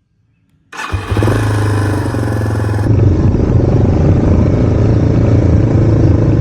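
Yamaha TW200's single-cylinder four-stroke engine running steadily, cutting in abruptly from silence about a second in.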